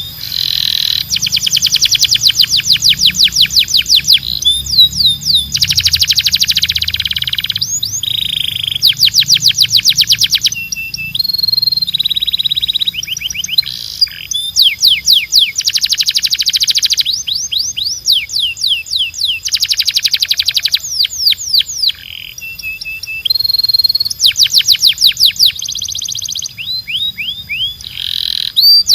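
Domestic canary singing nonstop: fast rolling trills of rapidly repeated sweeping notes, each run lasting a second or two, switching between different trill types with a few steady whistled notes in between.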